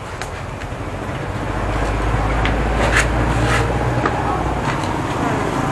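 Low engine rumble of a passing road vehicle: it builds about a second in, holds, then fades away near the end, over street noise with a few short clicks.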